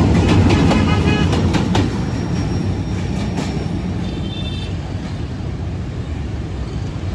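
A D19E diesel locomotive and its passenger carriages pass close by with a loud low rumble. The wheels click over the rail joints for the first two seconds, then the sound settles to a steadier, quieter low rumble. A brief high-pitched beep sounds about four seconds in.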